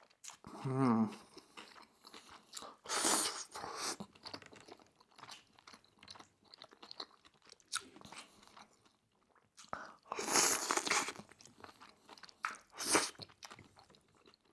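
Close-miked eating of udon noodles: wet chewing, with louder noisy bursts about three seconds in, around ten seconds and near the end. A short hummed 'mmm' comes in the first second.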